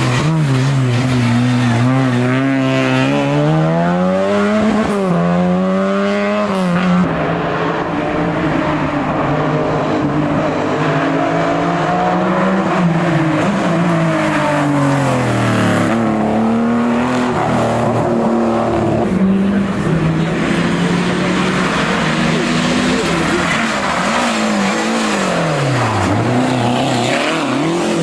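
Historic rally car engine driven hard, its pitch climbing and dropping again and again as it revs through gear changes and lifts off.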